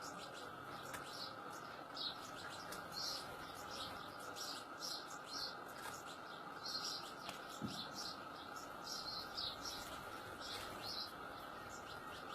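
European goldfinch chirping: short high chirps repeated irregularly, a few a second, over a steady background hiss.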